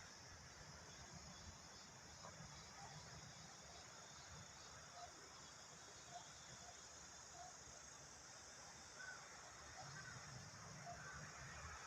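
Near silence: faint steady outdoor ambience with a high hiss, and a few faint short chirps in the second half.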